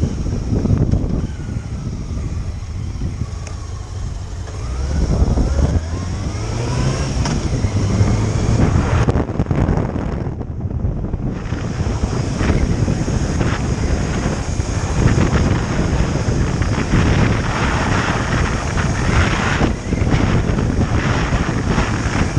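Motorcycle engine running under way with heavy wind buffeting on the microphone; a few seconds in, the engine note rises as the bike accelerates.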